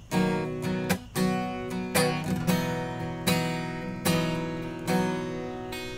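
Acoustic guitar strumming the song's instrumental outro without vocals, chords ringing between strokes that land about once a second.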